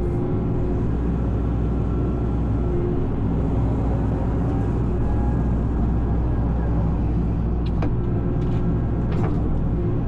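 Excavator diesel engine running steadily under hydraulic load, with a steady whine over the engine drone. A few sharp clicks or cracks come near the end.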